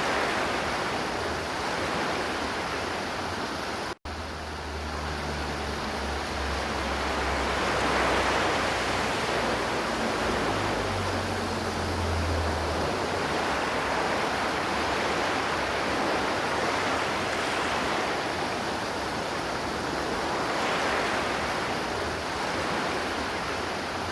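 River water flowing and rushing in a steady, even hiss that swells gently now and then. The sound drops out for an instant about four seconds in, then carries on.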